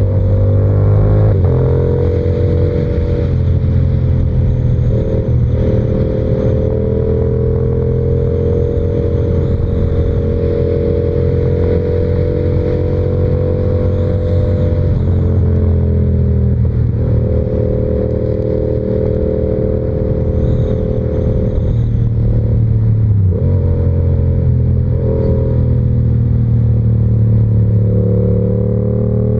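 Yamaha R7's parallel-twin engine through an SC-Project exhaust, running steadily while riding. Its pitch shifts a few times as the revs drop and pick up again.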